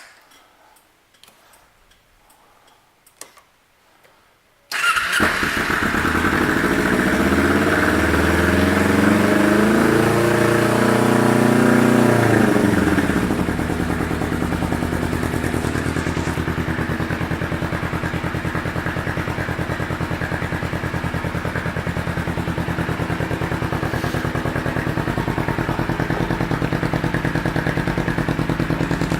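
A few faint clicks, then the 2009 Kawasaki Ninja 250's parallel-twin engine, fitted with an aftermarket exhaust, starts about five seconds in. It runs at a raised idle for several seconds, then its pitch drops and it settles into a steady idle.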